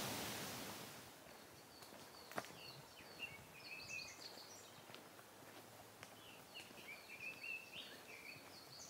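Faint birdsong: short chirping phrases in two runs, over a hiss that fades out during the first second. A single sharp click about two and a half seconds in.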